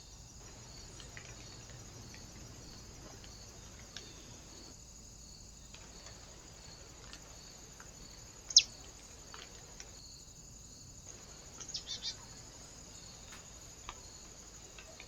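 Small bird at a feeder giving one sharp call that drops in pitch about halfway through, then a quick run of three or four chirps a few seconds later, over a steady high-pitched hiss with a faint regular pulsing.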